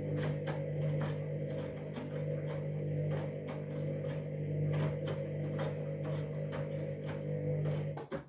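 Candy washing machine running with a steady low mechanical hum and faint regular clicks about twice a second, cutting off abruptly near the end.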